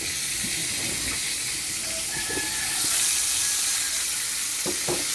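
Chicken pieces frying in a pot of hot oil, a steady sizzle, with a couple of light knocks near the end.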